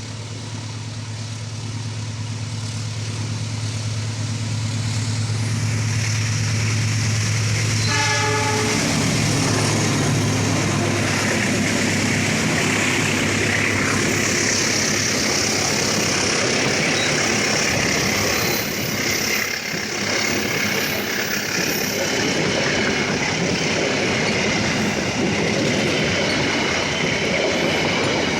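A train passing underneath: the locomotive's steady low engine hum grows louder, and about eight seconds in comes a short horn toot. After that the wagons roll past with a loud, continuous rumble of wheels on the rails.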